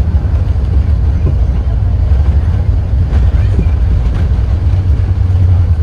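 Airbus A380 cabin noise during landing: a loud, steady low rumble from the aircraft, with faint voices in the background.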